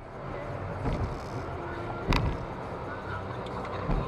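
Steady car driving noise: road and engine rumble with a low hum, and one sharp click about two seconds in.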